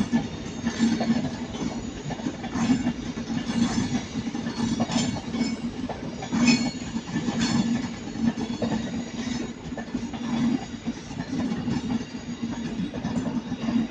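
Avanti West Coast Class 390 Pendolino electric train running slowly into the platform, its wheels clicking irregularly over rail joints and pointwork above a steady low hum.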